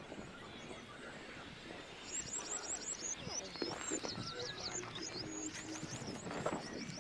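Birds singing, with quick runs of short high chirps repeated several times from about two seconds in, over a steady outdoor background hiss.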